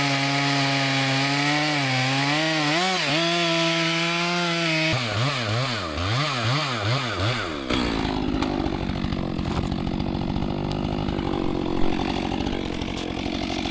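Chainsaw running: its pitch holds, wavers, then swings rapidly up and down over the first several seconds, and from about eight seconds in it cuts into wood under load, trimming the splintered holding spikes off a freshly felled tree's stump.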